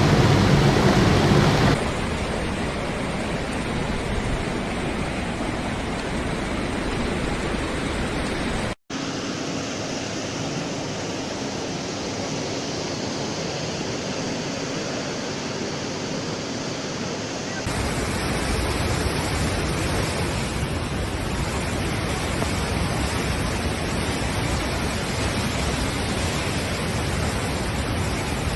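Floodwater rushing in a steady, noisy torrent. The sound changes abruptly about two seconds in and again past the middle, with a momentary dropout just before.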